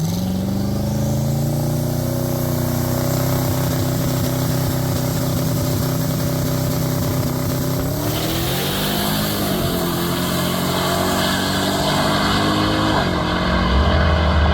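A drag car's engine revving up sharply, then held at a steady high pitch for about eight seconds before its pitch drops and changes, falling again near the end.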